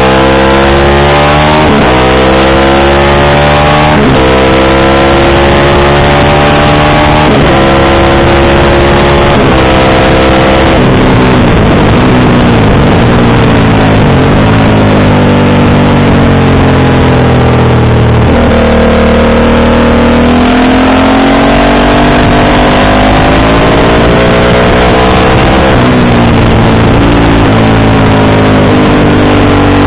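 Motorcycle engine under acceleration, loud throughout. Its pitch climbs and drops sharply at each upshift, about every two to three seconds in the first ten seconds, then rises and falls more slowly as the speed varies.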